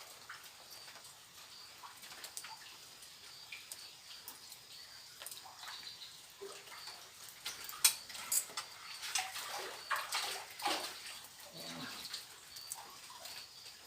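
Water splashing in bursts, loudest a little past the middle, with scattered clicks and a faint, high chirp repeating every second or so.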